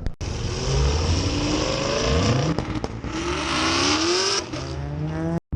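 A car engine revving hard, its pitch climbing several times over, with a loud hiss over it. The sound cuts out abruptly just before the end.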